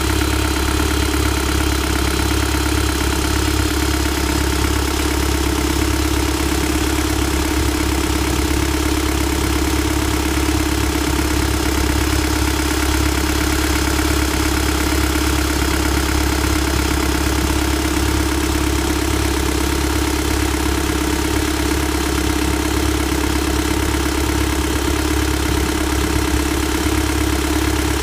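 Mercedes-Benz OM616 four-cylinder diesel engine of a W123 240D idling steadily, with no change in speed.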